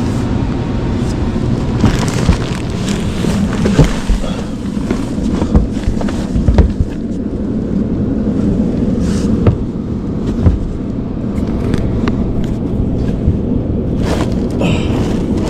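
A steady low machine hum, with scattered knocks and thumps as a person clambers over attic framing and ductwork.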